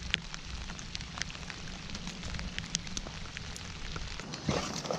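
Steady rain falling on the lake and boat, with many sharp, irregular ticks of drops striking close by, on rain gear or the camera.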